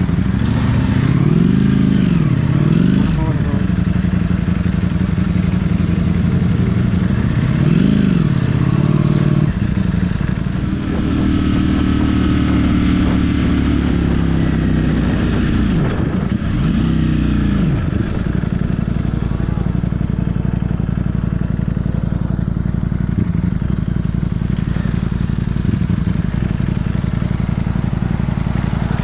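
Motorcycle engine while riding: the engine note rises and falls several times with the throttle in the first half, then holds a steady note through the second half, over constant riding noise.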